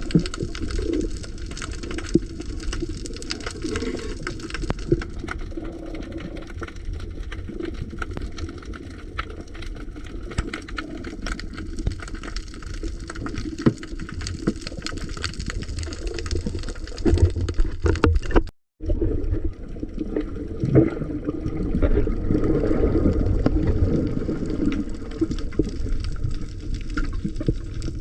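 Water noise recorded by a camera in the sea: low rushing and sloshing with many scattered small clicks and crackles. The sound cuts out for a split second about two-thirds of the way through, then carries on.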